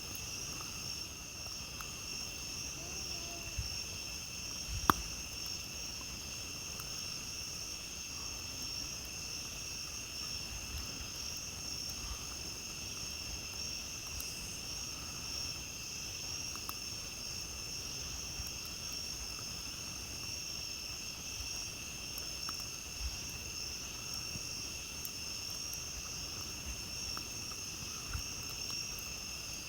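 A steady, unbroken chorus of night insects such as crickets, with a campfire giving occasional soft crackles and one sharp pop about five seconds in.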